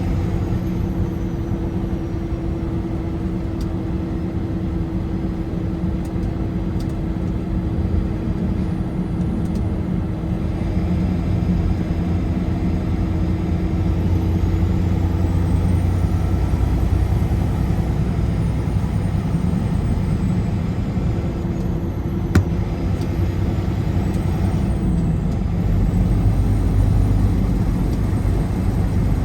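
Steady road noise of a car driving at highway speed: tyre roar and a low engine hum, with a short click about three quarters of the way through.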